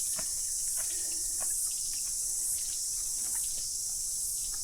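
Chorus of cicadas singing in the bush: a steady, dense, high-pitched buzz.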